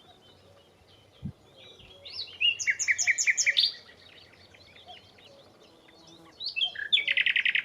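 Nightingale singing: a phrase of quick sweeping notes and rapid repeats about two seconds in, then near the end a fast run of the same note repeated many times. Faint chirps of other birds between phrases.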